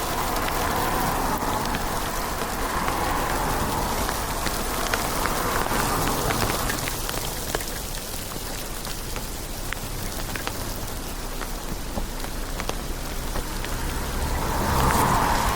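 Steady rain, with many sharp drop clicks over a constant hiss that swells a few times.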